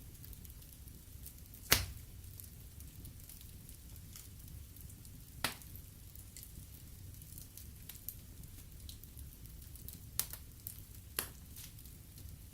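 Wood fire burning in a fireplace, with a low steady rumble and light crackling. Sharp pops from the burning logs come four times, the loudest about two seconds in.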